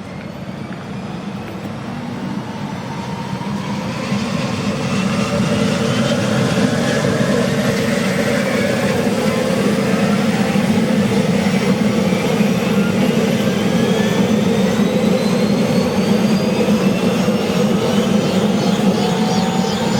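Bell 212's Pratt & Whitney Canada PT6T Twin-Pac turboshaft starting up: several turbine whines climb steadily in pitch as the engine spools up, growing louder over the first few seconds and then holding at a steady level.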